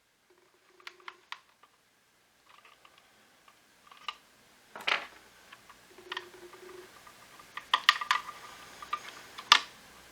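Hard plastic parts and small tools clicking and knocking as a cordless stick vacuum is taken apart, with a few brief squeaks; the loudest knocks come near the end.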